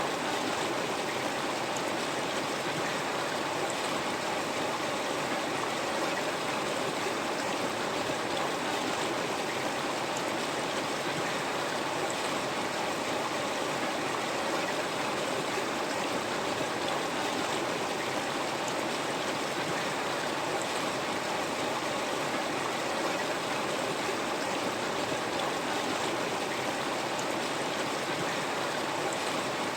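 River water flowing steadily, a constant rushing and babbling with no breaks or separate events.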